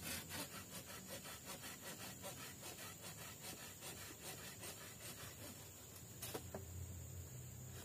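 Saw cutting through wood with quick, even strokes, about four a second, that grow fainter and die away after about five seconds; a single sharp knock follows a little after six seconds.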